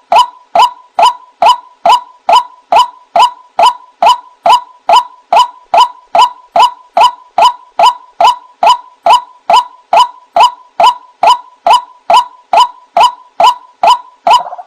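White-breasted waterhen (ruak-ruak) calling: a steady, rapid series of short, sharp 'wak' notes, about two and a half a second, as played from a bird-lure recording. Near the end a rougher, more continuous call starts to come in.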